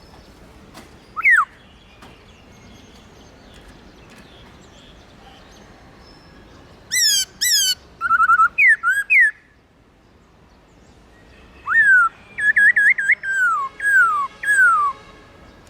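Black-throated laughingthrush (khướu bạc má) singing: one short falling whistle about a second in, then two loud bursts of clear whistled notes, many sliding downward, near the middle and in the second half.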